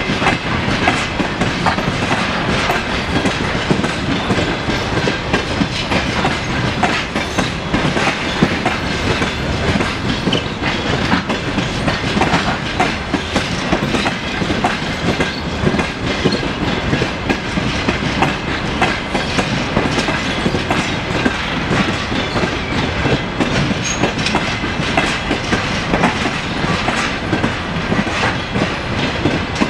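Passenger train coaches rolling past close by, their wheels clattering in a continuous clickety-clack over the rail joints.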